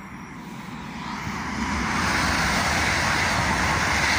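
ICE high-speed train passing through the station at speed: a rushing roar of wheels and air that swells over the first second or two and then holds loud and steady.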